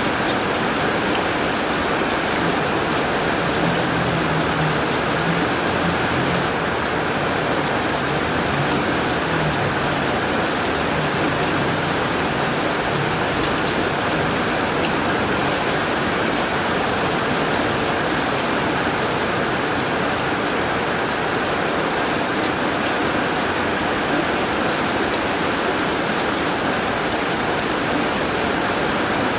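Steady heavy rain drumming on a tin roof, a dense patter of drops. A faint low rumble sits under it from about three seconds in until about twelve.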